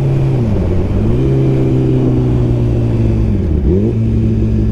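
Suzuki GSX-R1000R inline-four with a Brocks full exhaust running at steady revs under way, with wind noise. Twice the engine note dips sharply and comes back up, about half a second in and again a little past three seconds.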